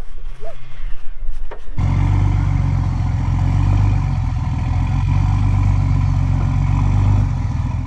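Vehicle engine running steadily and loudly, coming in abruptly about two seconds in and easing off near the end, typical of a recovery truck pulling under load.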